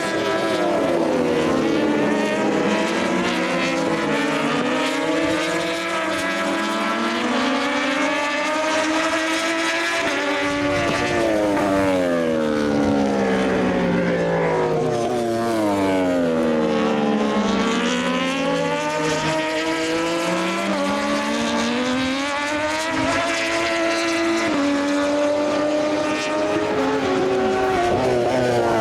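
Several Moto2 race bikes' Triumph 765 cc three-cylinder engines at racing speed, their pitch dropping and climbing again and again as they shift through the gears. Several engines overlap at once.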